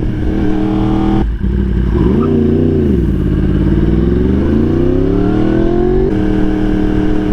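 Yamaha R1 sport bike's inline-four engine pulling hard through the gears: a shift about a second in, the revs rising and dipping briefly, then a long steady climb in pitch and another shift near six seconds in. Wind rushes over the microphone underneath.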